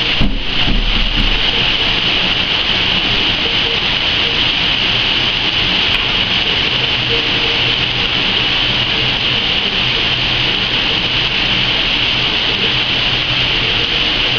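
Heavy rain pouring down in a loud, steady hiss. There is a brief low thump about a second in.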